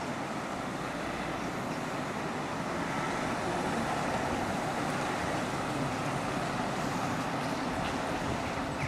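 Steady rushing noise of road traffic passing, growing a little louder about a third of the way in and easing off at the very end.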